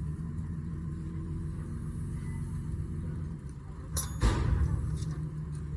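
Vehicle engine running with a steady low rumble, broken about four seconds in by a sharp click and then a short, loud thump or clank.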